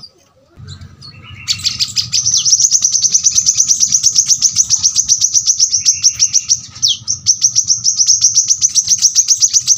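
Brown-throated sunbird (kolibri kelapa) singing. A few separate high call notes are followed, about a second and a half in, by a long fast run of sharp, high chirps at about ten a second. This is the close-packed, rapid-fire song prized as tutor song for captive birds.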